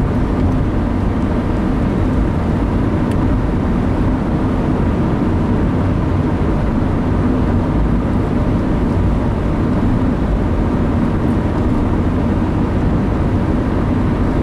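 Steady low rumble of road and engine noise inside a moving car's cabin, with a faint even hum and no change in pace.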